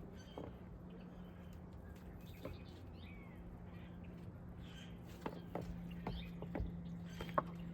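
Outdoor bird calls: scattered short chirps and sharp ticks, busier in the last few seconds, over a steady low hum.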